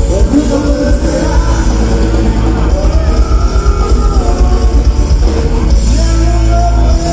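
Live rock band playing loudly, with heavy bass and drums, guitar, and a voice singing over it.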